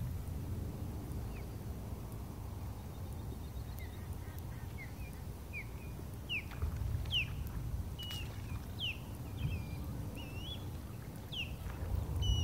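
Birds calling: a string of short chirps, each sweeping quickly in pitch, coming every half second or so from about a second in. Under them runs a steady low rumble.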